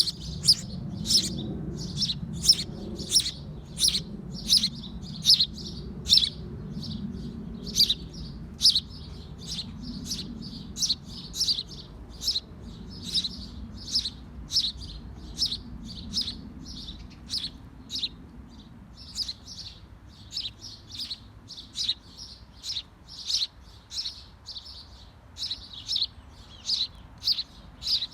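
Small birds at a birdhouse chirping: a steady run of short, sharp, high chirps, one or two a second.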